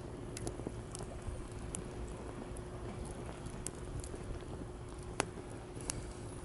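Wood campfire in a fire stand crackling, with irregular sharp pops, the loudest about five seconds in, over a steady low wash of sea waves.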